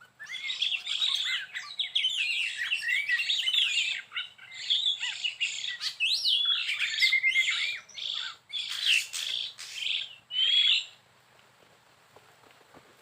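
A songbird singing a rich, varied song of fast whistles, trills and chirps in dense phrases, stopping about eleven seconds in.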